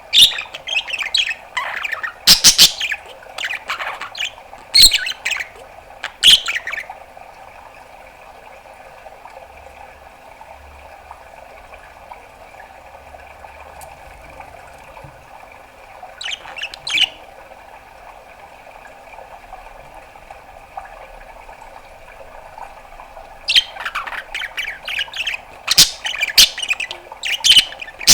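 Budgerigar chirping and squawking in quick sharp bursts for the first six seconds or so. It calls once briefly around the middle, then chatters densely again for the last few seconds. In the quiet stretch between, a faint steady hum carries on.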